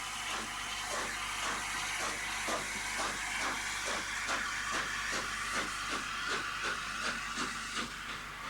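Peppercorn A2 Pacific steam locomotive Blue Peter working under steam: a steady steam hiss with regular exhaust beats, about three a second.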